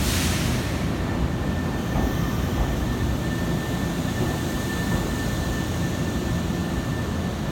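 Nankai electric train's steady low rumble with a constant thin high whine, opened by a short hiss right at the start.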